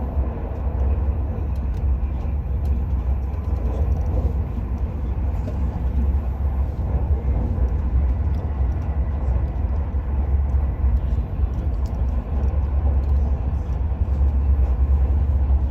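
Steady low rumble of a moving high-speed train, heard from inside the carriage.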